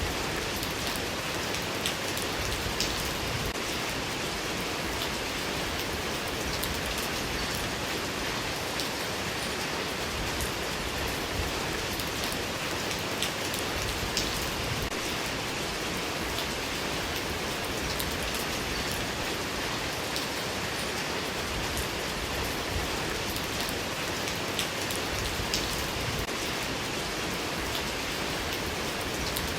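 Steady rain falling: an even hiss with scattered ticks of single drops striking a surface.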